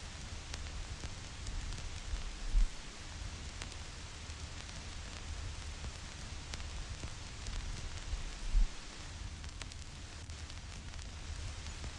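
Vinyl record surface noise: a steady hiss with scattered small crackles and pops and a low rumble underneath. Two short, loud low thumps stand out, one a couple of seconds in and another about six seconds later.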